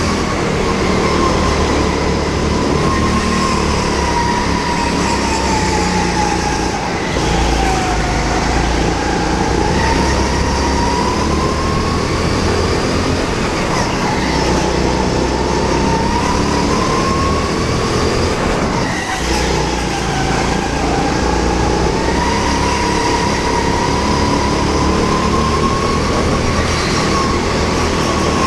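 Rental go-kart engine running hard through a lap, with a loud steady whine. Its pitch sinks twice, about a third and about two thirds of the way through, and climbs again each time, as the kart slows for corners and accelerates out.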